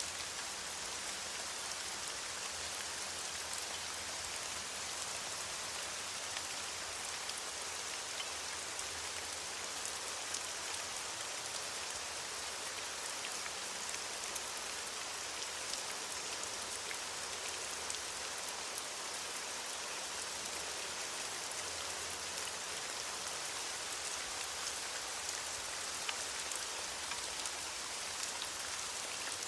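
Steady rain falling on leaves, a constant hiss of many small drop patters.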